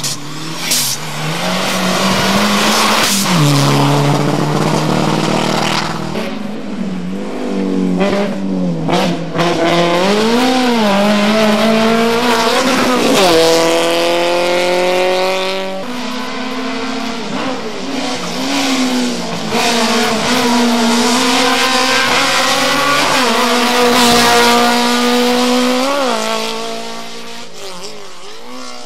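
Competition car engine revving hard on a slalom run, its pitch climbing and dropping again and again as the driver accelerates, lifts and changes gear, then fading near the end as the car drives away.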